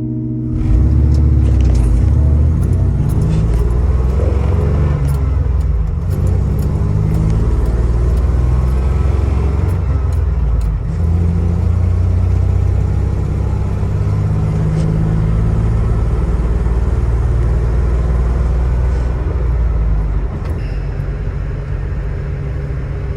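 Chevrolet Silverado's 4.3-litre V6 running while the truck is driven, a deep steady engine sound with the revs rising and falling early on.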